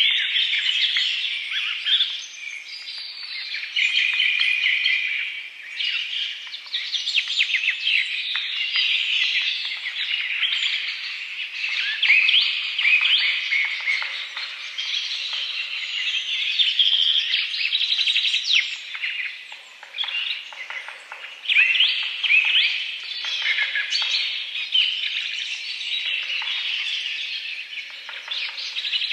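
Dense, continuous chorus of small birds chirping and trilling, many short quick notes overlapping without a break.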